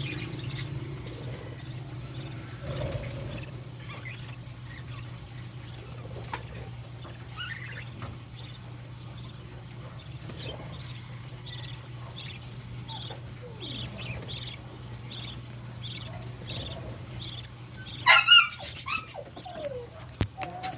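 Budgerigars chirping, with a run of soft, evenly spaced chirps in the middle and a louder burst of calls near the end, over a steady low hum.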